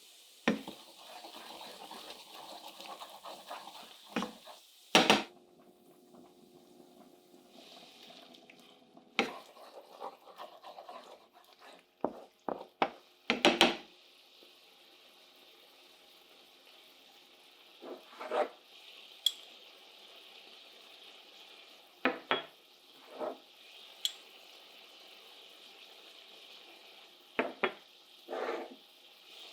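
Kitchen utensils knocking, clinking and scraping against cookware during cooking, with scattered sharp strikes, the loudest about five seconds in and again around thirteen seconds, and a faint steady hiss beneath.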